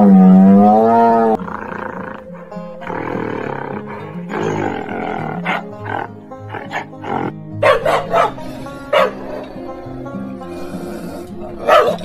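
Animal calls over background music: a loud, long call wavering in pitch that ends about a second and a half in, then several short, sharp calls later on.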